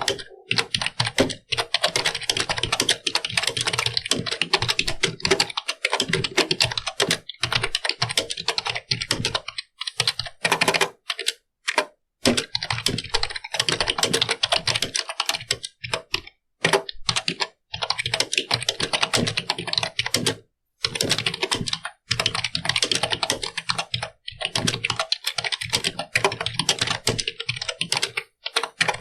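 Computer keyboard being typed on fast and continuously: a dense run of key clicks, broken by short pauses about a third of the way in and again about two-thirds in.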